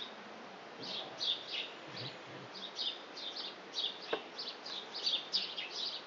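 Small birds twittering: a steady stream of quick, high chirps, several a second.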